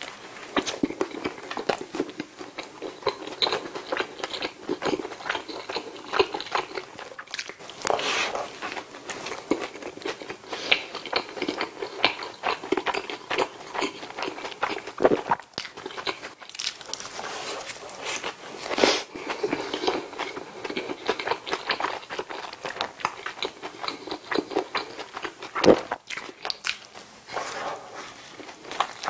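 Close-miked eating sounds of a person biting into and chewing McDonald's Bulgogi Burgers: soft bun, patty and lettuce worked in the mouth, with smacking and a few louder bites.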